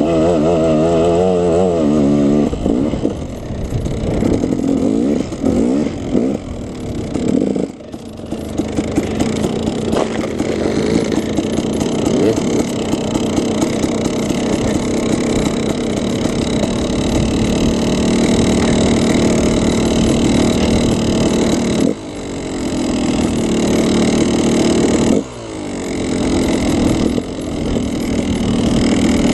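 KTM 300 two-stroke dirt bike engine revving hard and changing pitch as it is ridden. The throttle rises and falls repeatedly, with sharp chops off the throttle about 8 seconds in and twice more near the end.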